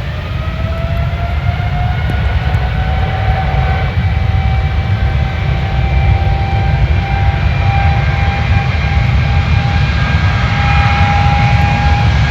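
Jet airliner's engines growing steadily louder, with a whine that rises in pitch over the first few seconds and then holds steady, above a heavy low rumble.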